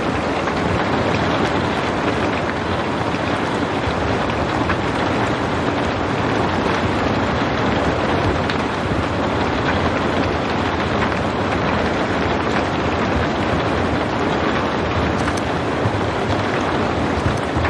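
Steady rain falling without thunder: a dense, even hiss with faint scattered drop ticks.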